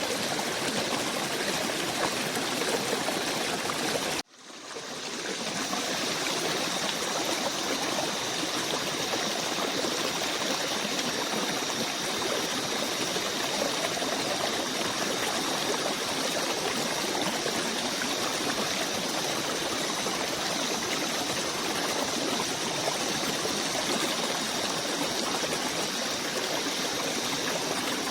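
Steady rushing and trickling of a forest stream. About four seconds in it cuts out abruptly and fades back up over a second or two, as at a loop seam. After that, a faint steady high tone sits above the water.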